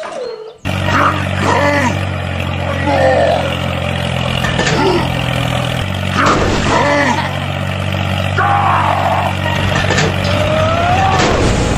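Small engine running steadily, with short voice-like calls rising and falling over it from time to time.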